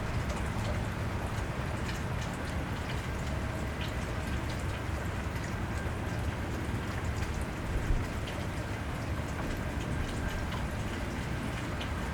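Steady cold rain falling on a wet street, with scattered close raindrop ticks and a steady low rumble underneath.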